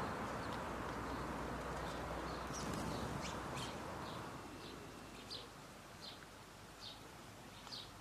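Small garden bird giving short, high chirps over and over, in the second half evenly spaced a little under a second apart. A low rushing background noise underneath fades away about halfway through.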